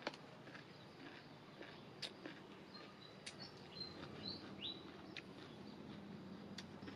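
Small birds chirping a few short, high calls near the middle, over a faint outdoor background, with a handful of sharp clicks spaced a second or two apart.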